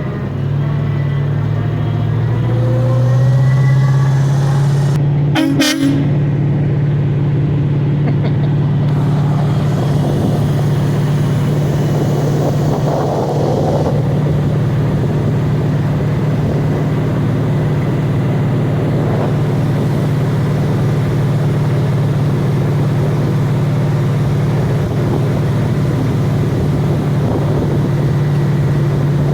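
Engine of a 1975 International 1810B CargoStar fire truck running steadily. It comes up slightly in speed in the first second, and there is one sharp knock about five seconds in.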